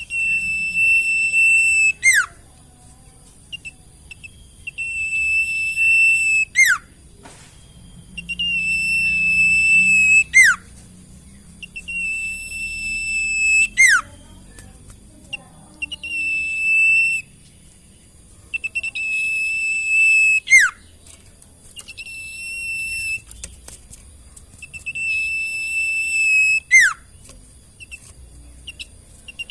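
Sirtu bird song played as a masteran tutoring recording: a long, steady, high whistle that ends in a quick falling slur, repeated about every three to four seconds.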